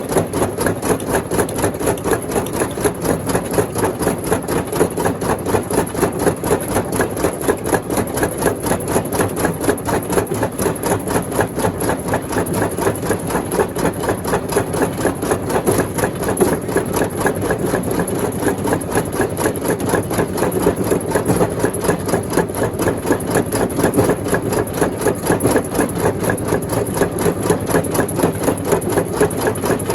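Rock crusher machine running steadily, a loud mechanical clatter with a fast, even rhythm.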